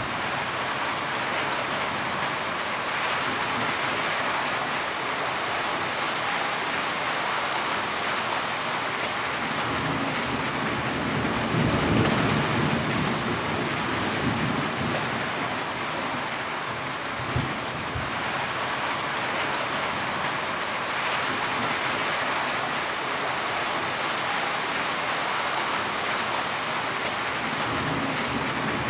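Heavy rain falling steadily, with low rumbles of thunder swelling up around the middle and again near the end.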